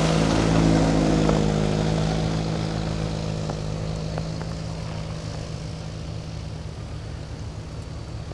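A passing engine's steady drone, loudest at the start and slowly fading away over several seconds.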